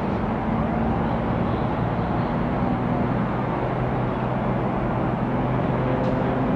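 Airbus A350-941 jet engines running: a steady rush with a low hum underneath.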